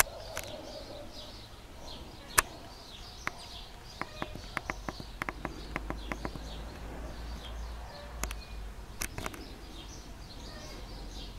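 Small songbirds chirping over and over, broken by sharp clicks: one loud click about two seconds in, then a quick run of them over the middle few seconds. A faint low rumble sits underneath.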